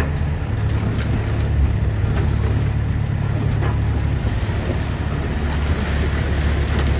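Sany SY60C Pro mini excavator's diesel engine running at a steady speed, with a few light knocks over it.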